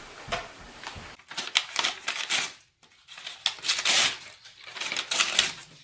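A pet parrot chewing and crunching on something brittle, in quick bursts of crackling clicks with a short silent break about three seconds in.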